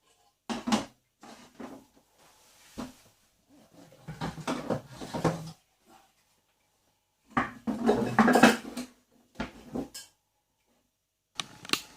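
Pots and a lid being handled, clattering and knocking in several separate bursts.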